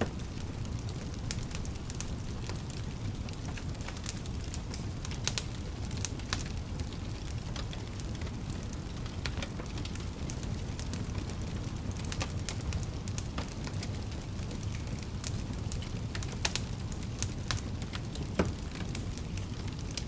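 Wood fire burning in a fireplace: a steady low rumble of flames with frequent sharp crackles and a few louder pops.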